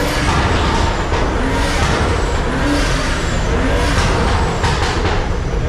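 Steady motor-vehicle noise: car engine and road rush.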